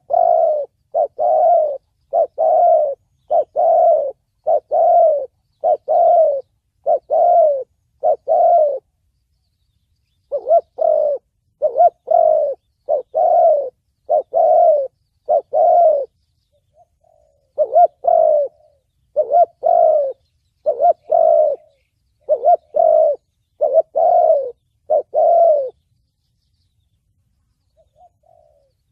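Spotted dove cooing in the deep 'thổ bầu' voice used as a lure call: a long series of short, evenly spaced coos, about one a second, in three runs with short pauses between.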